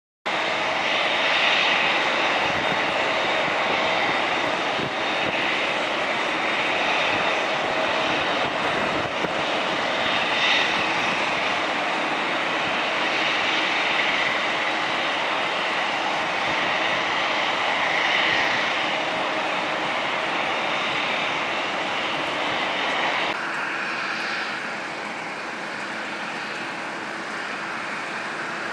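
Boeing 747-400 freighter's jet engines running with a steady whine over a broad rush. The whine and overall level drop suddenly about three-quarters of the way through, then hold steady at the lower level.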